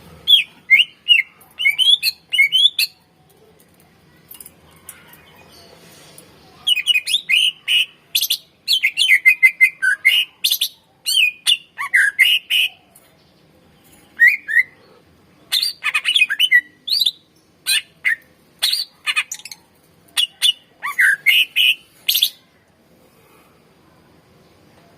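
Greater green leafbird (cucak ijo) singing: phrases of quick, sharp chirps and whistles, broken by pauses of a few seconds.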